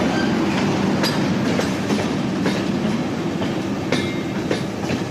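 Passenger train running on the track: a steady rumble broken by irregular clicks of the wheels over the rails.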